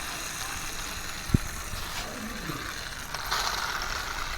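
Handling noise from plastic toys being moved and set down: a single dull thump about a second and a half in, then light clattering and rustling near the end.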